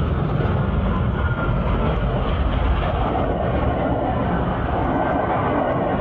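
A train passing a railway level crossing: a loud, steady rumble of the cars and wheels on the rails.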